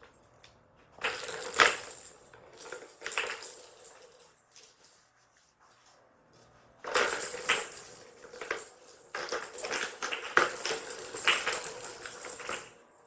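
Plastic balls clattering and rolling inside a cat's ball toy as a kitten bats at them, in two bouts of rattling and clicking.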